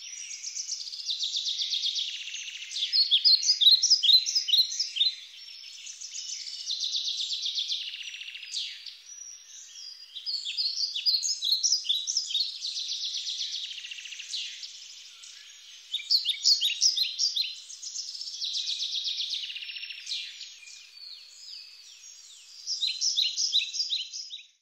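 Birdsong: stretches of a fast trill alternate with runs of quick, separate high chirps, in phrases a few seconds long repeating throughout.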